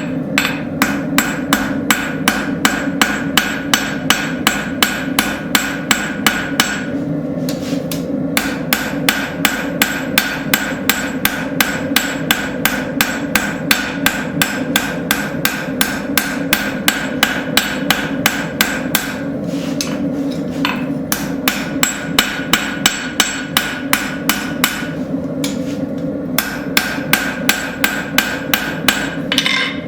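Rounding hammer striking a hot railroad spike on an anvil, drawing out the blade's bevel: steady ringing blows about three a second, in runs broken by a few short pauses.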